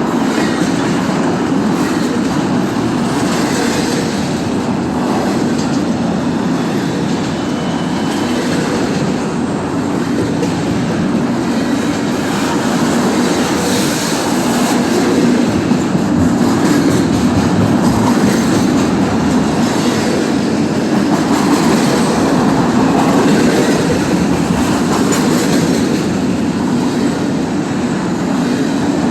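Freight cars of an intermodal train rolling past steadily: a continuous rumble of steel wheels on the rails with a clickety-clack over the rail joints.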